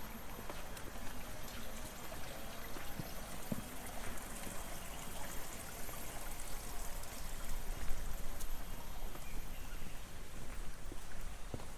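Water flowing and trickling steadily in an irrigation channel.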